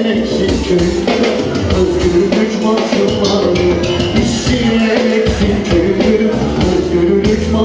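Live, amplified Turkish folk song played by a band, with a held melody over a steady drum beat.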